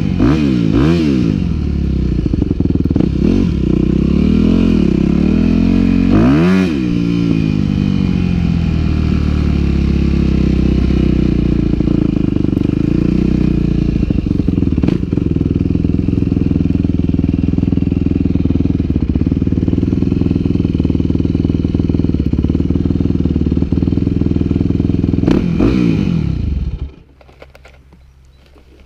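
Yamaha WR250F's four-stroke single-cylinder engine revving up and down several times, then running at a steady pitch for a long stretch. Near the end the revs fall and the engine cuts off, leaving a few faint clicks.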